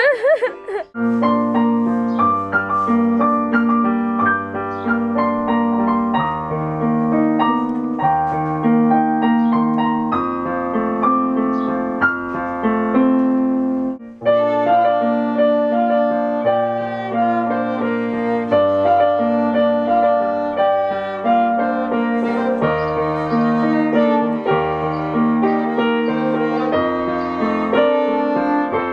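Piano music: a flowing piece of held chords under a melody, with a brief break about fourteen seconds in before it carries on.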